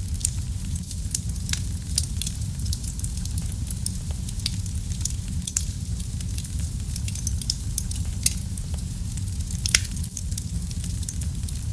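Wood fire burning in a fireplace: a steady low rumble with irregular sharp crackles and pops, two louder pops about eight and ten seconds in.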